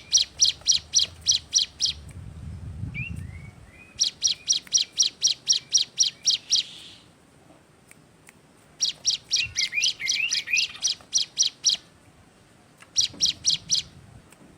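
Ciblek gunung (a prinia) singing: bouts of a rapid, evenly repeated high note, about six notes a second and two to three seconds per bout, four bouts with short pauses. A few softer, lower chirps fall between the bouts.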